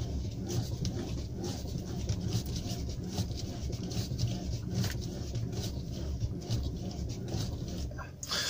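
Kia Optima steering wheel being rocked back and forth: soft irregular clicks and rubbing from hands and the column over a low steady rumble, with no steering knock to be heard.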